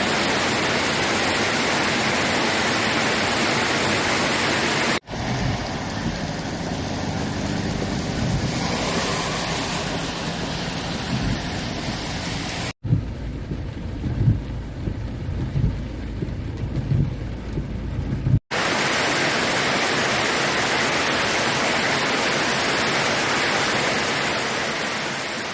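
Steady hiss of heavy rain pouring down. It is broken by two hard cuts into sections with low rumbling and irregular knocks, then the even rain hiss comes back and fades out near the end.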